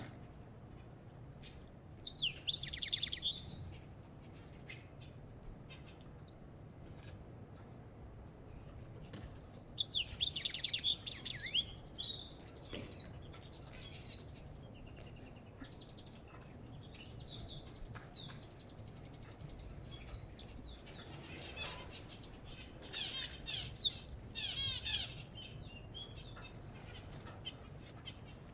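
Songbird the video calls an African goldfinch singing four phrases of rapid, high twittering and trills, separated by pauses of a few seconds, over a faint steady low hum.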